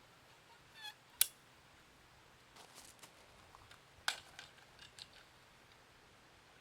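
A short squeak, then a string of sharp clicks and knocks, the loudest about a second in and another about four seconds in.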